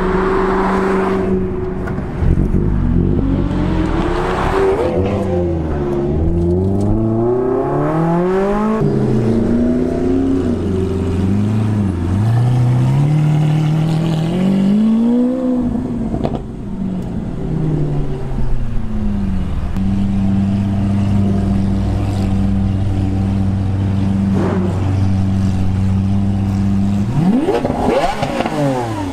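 Sports car engine revving up and down, its pitch repeatedly rising and falling through gear changes. It then holds a steady note for several seconds before revving up again near the end.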